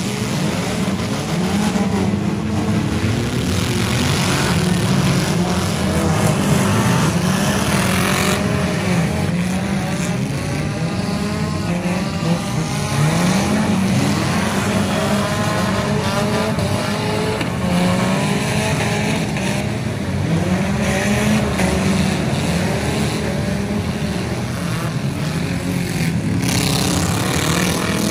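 Several four-cylinder demolition derby cars revving hard at once, their engine pitches rising and falling over one another without a break.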